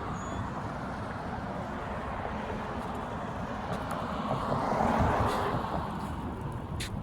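A vehicle passing by, growing louder to a peak about five seconds in and then fading, over steady outdoor street noise.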